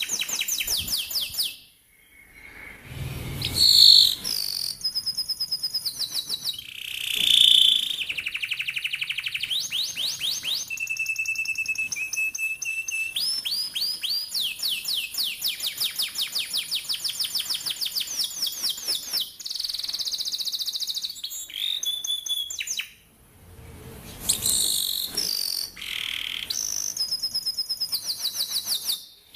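Domestic canary singing a long song of rapid rolled trills, fast repeated notes in runs lasting several seconds. The song breaks off briefly about two seconds in and again near 23 seconds.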